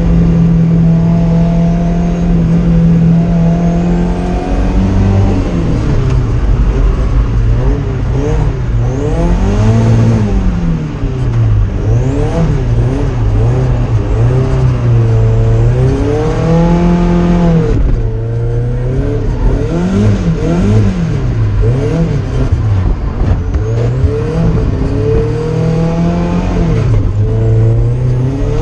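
Drift car engine under hard throttle: it holds a steady pitch for the first few seconds, then revs up and down over and over as the car is driven through a drift.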